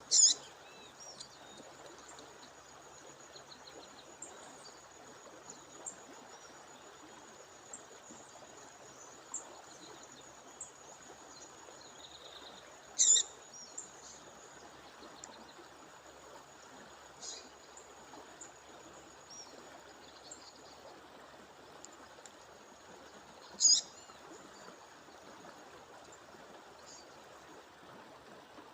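Female songbird calling: three loud, short, sharp calls about ten seconds apart, with a fainter one between them, over the steady rush of a waterfall. A thin, steady high-pitched tone runs underneath.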